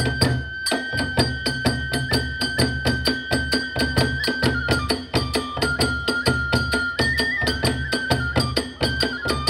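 Kagura hayashi ensemble: a transverse flute holds long notes that step between a few pitches over fast, even strokes of drum and small hand cymbals, about five a second.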